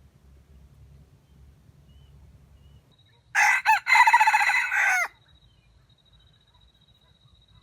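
A rooster crows once, loud and high-pitched, for a little under two seconds: two short clipped notes, then a longer held note that falls away at the end.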